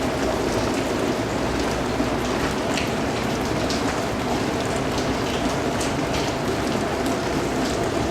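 Steady rainfall with a dense, even patter and individual drops ticking now and then over it.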